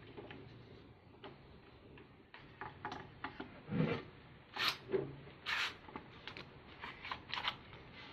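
Irregular clicks, knocks and scraping rubs of metal parts being handled and fitted together, as a stepper motor and its bracket are worked into place.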